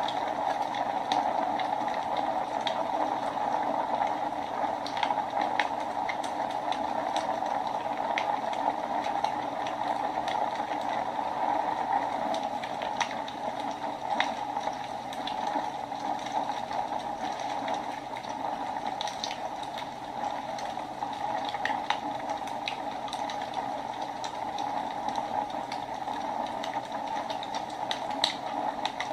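Wood fire burning in a fireplace: a steady hiss with irregular sharp crackles and pops scattered throughout.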